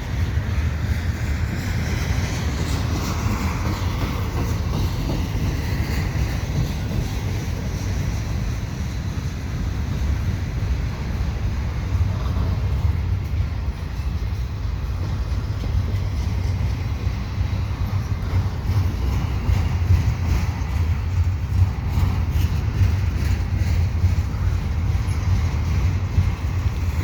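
CN double-stack container freight train rolling slowly past, a steady low rumble of the cars on the rails with faint wheel clacks.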